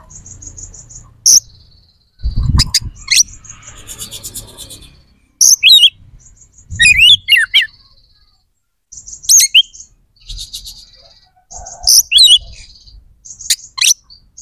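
Oriental magpie-robin singing a loud, varied song of buzzy high trills, sharp whistled notes that sweep down, and short clicks, in quick separate phrases. A few low thuds come in between.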